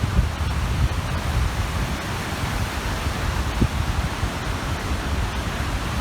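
Small waves breaking and washing on a reservoir shore, a steady rushing hiss, with wind buffeting the microphone as a fluttering low rumble.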